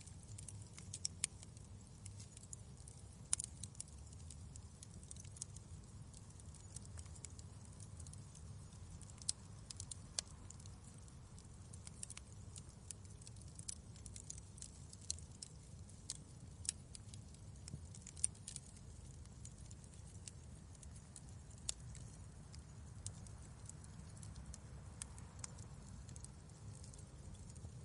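Wood fire in a fireplace crackling: irregular sharp snaps and pops, a few louder than the rest, over a steady low rumble of the burning fire.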